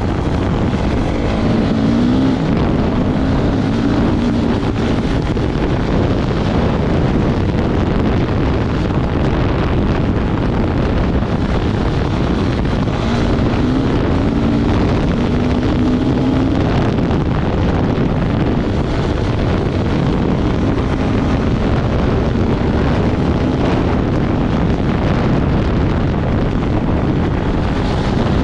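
Off-road vehicle engine running at speed across the desert, its pitch wavering, under heavy wind buffeting on the microphone.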